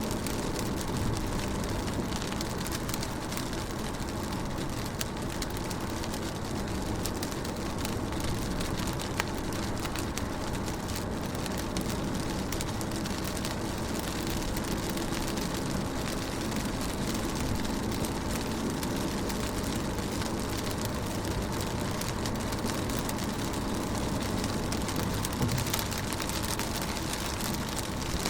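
Steady rain falling on a car, with fine raindrop ticks over a constant hiss.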